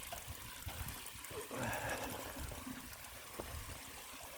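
Faint running water, a steady trickling hiss, with a soft swell about one and a half seconds in.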